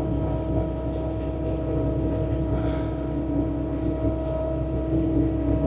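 Bobcat T66 compact track loader's diesel engine driving its snowblower attachment, running steadily below full throttle with a constant droning hum.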